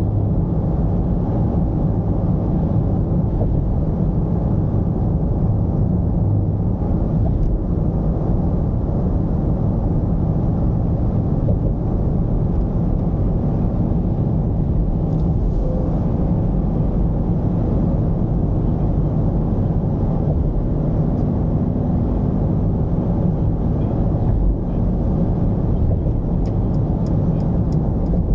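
Mercedes-Benz V220's diesel engine and road noise in a steady low drone while the van is driven. A short run of faint ticks comes near the end.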